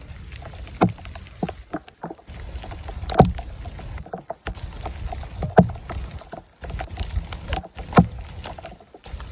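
Paddle strokes from a canoe or kayak in the water, a strong stroke about every two and a half seconds with lighter dips and splashes between.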